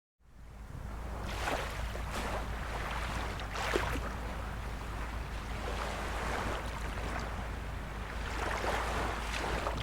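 Small waves of a calm sea lapping and splashing softly, fading in from silence at the start and then running steadily in gentle swells over a low, even rumble.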